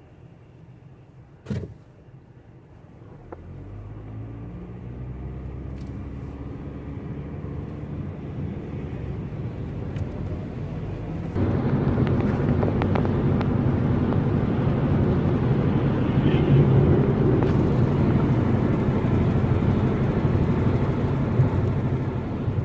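Motor vehicle engine running and slowly rising in pitch, then a sudden jump to a louder, fuller running sound about halfway through that holds steady. A single sharp click comes just before the engine sound begins.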